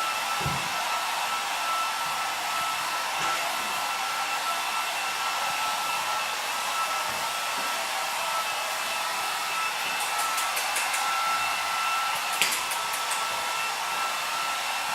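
Handheld electric hair dryer running steadily: a rushing blow of air with a constant high whine from its motor. There are a few faint clicks near the end and one short sharp knock.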